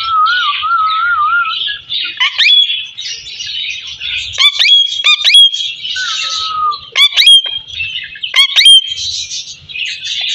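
Parrot whistling: a wavering, warbling whistle at the start, then a series of sharp rising whistled calls, often in quick pairs, each ending on a short held high note, over a steady high background noise.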